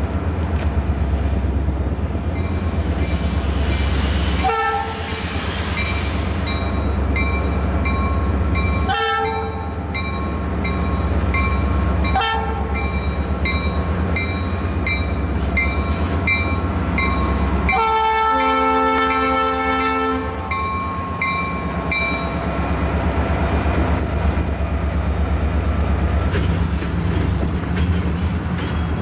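A diesel freight train approaching and passing a grade crossing: the locomotive horn sounds three short chord blasts and then a long blast of about two seconds, over the steady low rumble of the diesel engines. A crossing bell dings at a steady rate and stops a few seconds after the long blast, and wheels clatter over the rails as the cars roll by.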